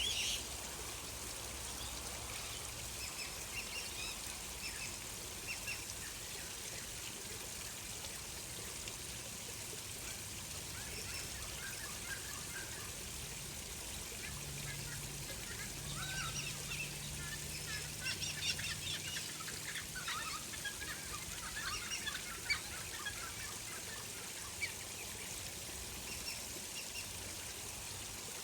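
Steady trickling of flowing water, with scattered small bird chirps that grow busier around the middle.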